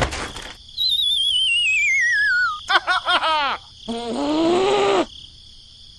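Cartoon-style sound effects: a sharp hit, then a long falling warbling whistle, a quick run of springy swooping boings, and a short pitched voice-like groan about four seconds in.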